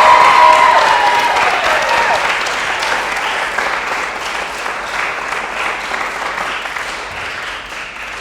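Audience applauding, with high whoops and cheers over it in the first couple of seconds; the applause slowly fades away.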